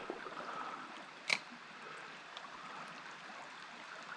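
Creek water running steadily over rocks, with one sharp click about a second in.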